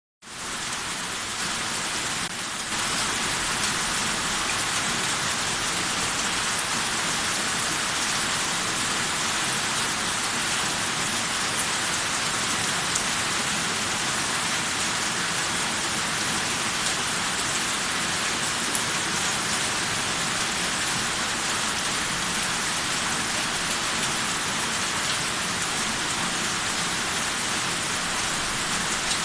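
Steady rain falling on a surface, an even hiss with a few faint drop ticks, fading in over the first second.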